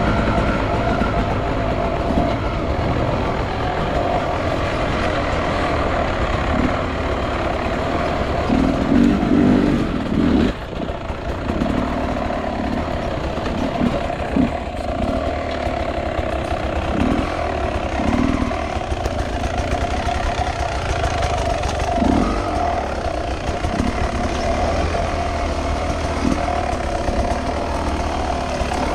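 Beta 300 RR two-stroke enduro motorcycle engine running at a fairly steady, low speed, with short swells in the engine note every second or two.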